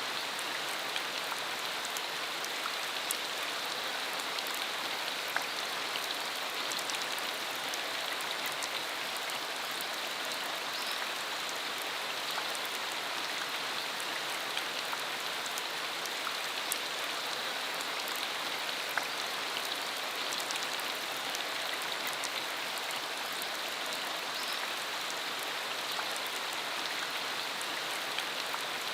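Steady rain falling, an even hiss with scattered close drop splashes.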